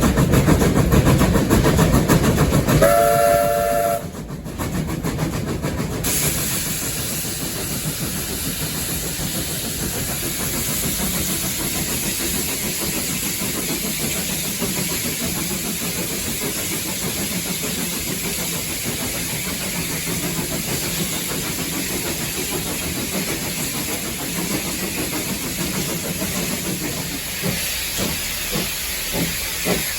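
Steam locomotive heard from the cab. It runs loudly for a few seconds, then gives a short whistle blast about three seconds in. After that the steam hisses steadily, and a faint regular beat starts near the end.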